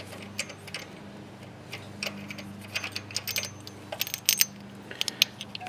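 Small metal clicks and clinks of hand tools and parts, irregular and thickest in the middle, as the bolt and washer come off an engine's idler pulley. A faint steady hum runs underneath.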